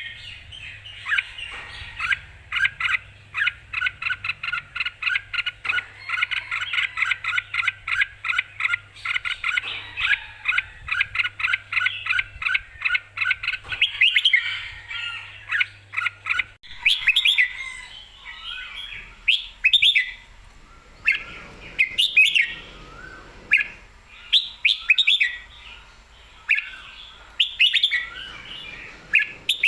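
Red-whiskered bulbul singing. For about the first half it is a fast run of short, repeated chirps. After that come more varied, spaced-out phrases with short gaps between them.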